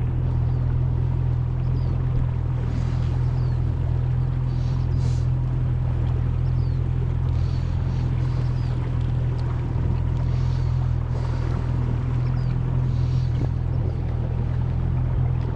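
A boat's motor running steadily while under way: an even, low drone with no change in pace.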